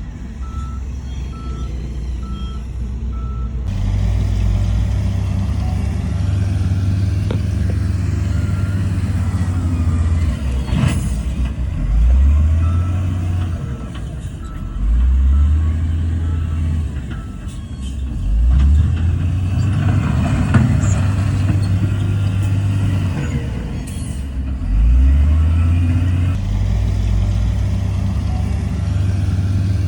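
Heavy diesel earthmoving machinery running, its engine note rising several times as it takes load. A reversing alarm beeps repeatedly near the start.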